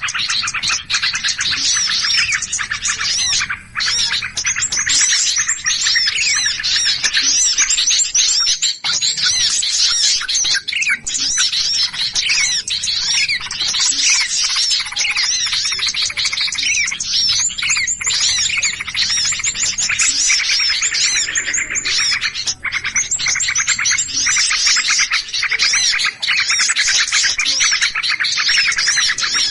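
Dense chorus of many small songbirds chirping and chattering noisily all at once: rapid, overlapping high chirps and trills without a break. This is a bird-lure (pikat) recording of noisy, agitated small-bird calls, played to attract wild birds.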